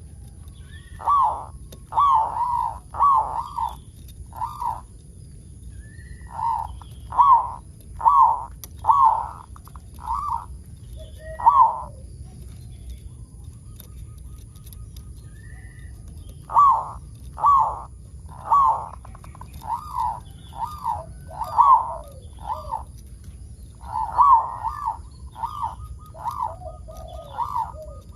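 Zebra dove (perkutut) cooing in phrases of repeated notes that rise then fall, one to two a second. The phrases are split by short pauses. The bird is a vigorous local singer whose song is used to prompt other perkutut to sing.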